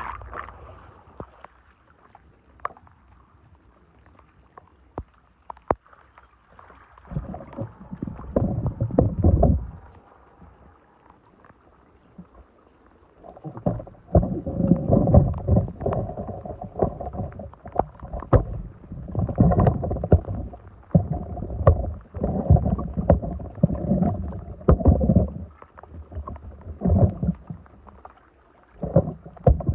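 Water splashing and sloshing in repeated bursts lasting a second or more, with a few sharp knocks in the quieter first part.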